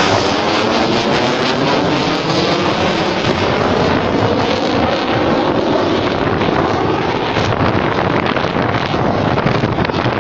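JF-17 Thunder fighter's jet engine, a loud continuous rush as the jet passes overhead, with a slow sweeping, phasing tone through it. Wind buffets the microphone.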